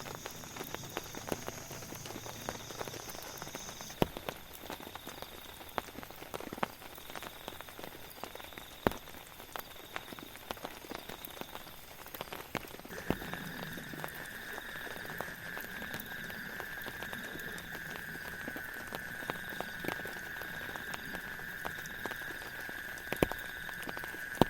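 Rain pattering steadily, with scattered louder drips and taps. About halfway through, a steady high-pitched tone comes in and holds.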